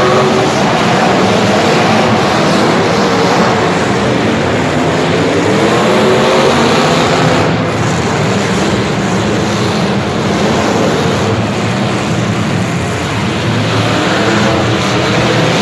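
A vehicle engine running loudly, its pitch rising and falling as it revs.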